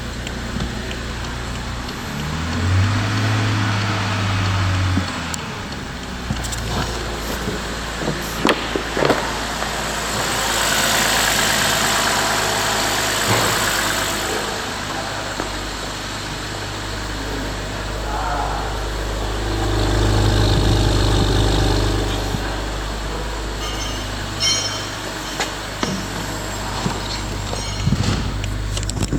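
BMW 528i (F10) N52B30 3.0-litre inline-six engine idling steadily, blipped twice: a short rise and fall in pitch a few seconds in and a louder surge about two-thirds of the way through. A rushing hiss joins it for a few seconds in the middle.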